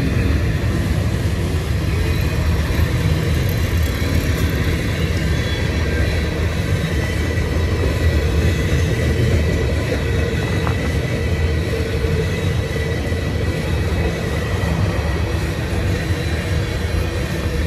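Freight train tank cars rolling past on the rails: a steady low rumble of wheels on track, with a faint steady high tone above it.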